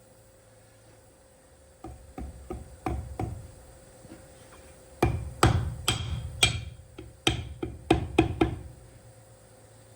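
Irregular hammer blows on metal parts of a truck steering column being overhauled. A few lighter taps come about two seconds in, then a run of harder strikes follows in the second half, some with a short metallic ring.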